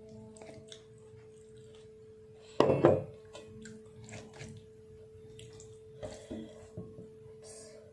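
Close-miked eating sounds: wet chewing and mouth smacks with small clicks, and one louder burst about two and a half seconds in, over a steady faint hum.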